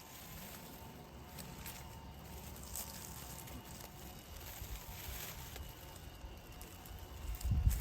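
Faint rustling and light crackles of blackberry brambles being handled during picking, over a low rumble, with a louder low thump near the end.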